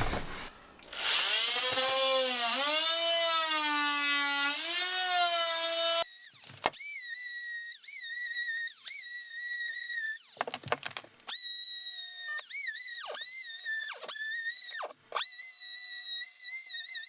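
Oscillating multi-tool cutting through old floor tile and flooring with a steady whine. The whine is lower and wavers for the first few seconds, then runs higher and drops sharply in pitch again and again as the blade bites.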